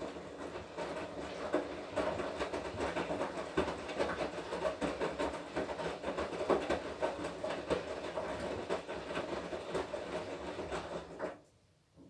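Washing machine drum turning during the wash cycle: a motor hum with laundry and water churning and knocking inside. It stops abruptly near the end.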